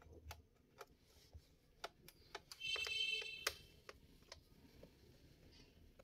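Small screws being unscrewed from a laptop's plastic bottom case with a screwdriver: faint scattered ticks and clicks, with a short high squeak lasting about a second near the middle.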